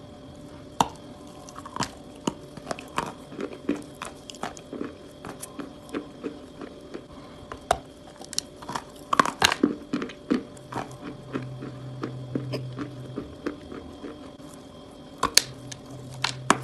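Close-up biting and crunching of chalk: a run of sharp, irregular crunches and crackles, thickest a little past the middle.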